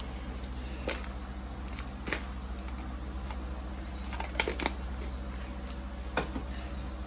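A few light clicks and rustles of a hair flat iron being handled and clamped through hair, with a quick cluster of clicks about four seconds in, over a steady low hum.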